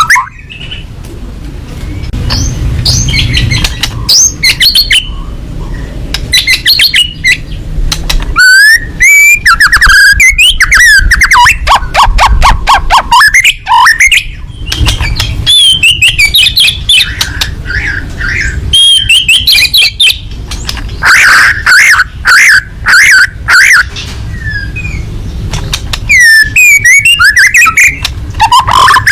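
White-rumped shama (murai batu) singing loudly and without let-up: rapid runs of sharp, harsh notes mixed with whistled phrases that slide up and down. A low rumble sits underneath at times.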